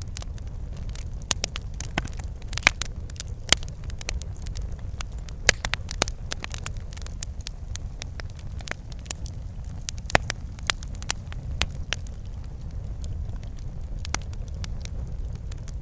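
Wood fire crackling in a fireplace: a steady low rumble of burning with irregular sharp pops and snaps, a few louder ones scattered through.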